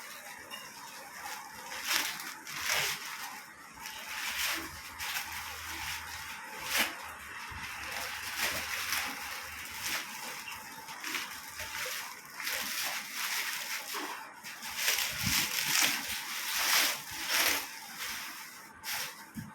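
Packaging being handled and pulled open: irregular rustling and crinkling with sharper crackles, busiest near the end.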